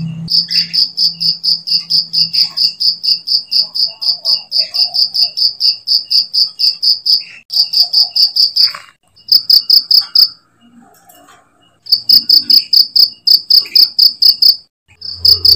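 Cricket chirping: a steady train of short, high chirps about four a second, breaking off briefly a few times, with a longer pause about two-thirds of the way through.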